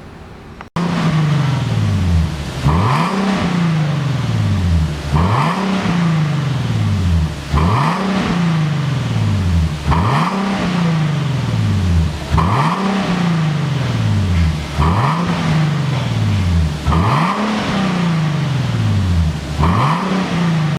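Nissan 370Z's 3.7-litre V6 revved through an aftermarket dual valve exhaust with a mid-range tone: about eight throttle blips, each rising quickly and dropping slowly back to idle over roughly two seconds.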